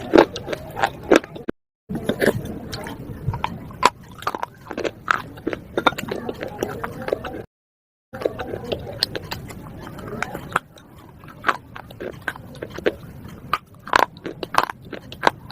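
Close-up crunching of slate being bitten and chewed: a dense, irregular run of sharp cracks and crunches. The sound drops out completely twice for a moment.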